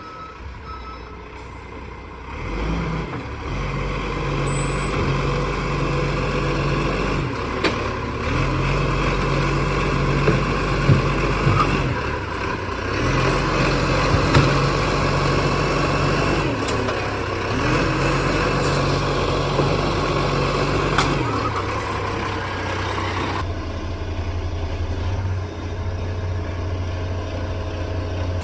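Garbage truck engine running, its speed rising for a few seconds and dropping back four times, then settling steady. There are a few sharp clanks in the middle.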